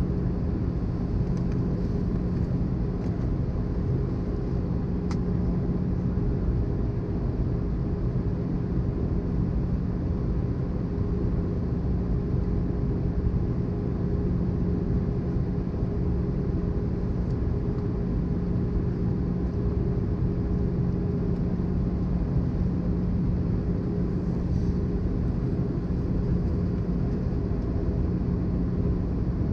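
Cabin noise of an Airbus A320 in flight on descent: a steady rumble of engine and airflow noise with a steady low hum, unchanging throughout.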